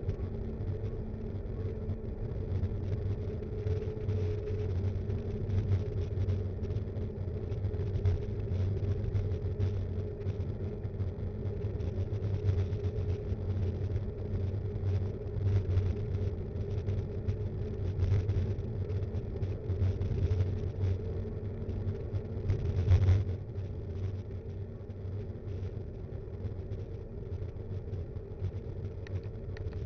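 Riding noise of a B'Twin Rockrider 5.1 mountain bike picked up by an action cam mounted on it: a steady rumble of tyres and frame vibration, with small rattles over bumps and a harder jolt a little past two-thirds of the way through.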